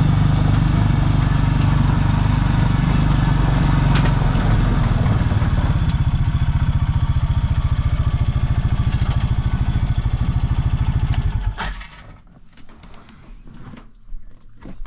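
A vehicle engine runs steadily, settles into an even, pulsing idle about five seconds in, and is switched off shortly before the end.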